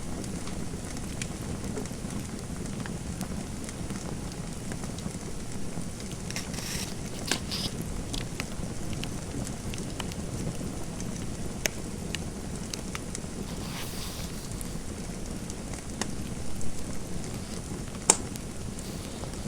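Fireplace fire crackling: a steady low rumble of burning with scattered sharp pops and snaps, the loudest near the end.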